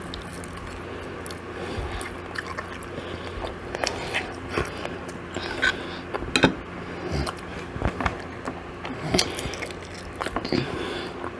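Close-miked eating: a person biting and chewing chicken and waffles, with irregular short crunches and wet mouth clicks.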